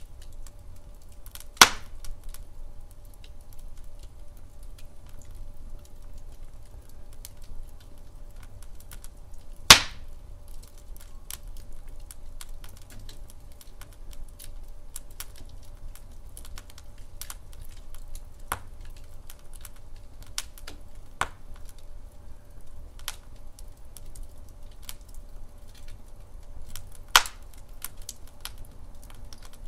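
Wood logs burning in a fireplace, crackling with a steady scatter of small snaps and three much louder pops, over a low steady rumble.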